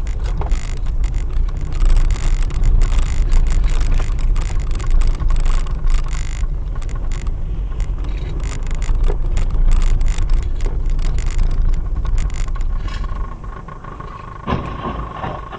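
Heavy low rumbling of a moving vehicle as picked up by a dash cam, with many knocks and rattles throughout. It eases near the end, where a steady mid-pitched tone comes in.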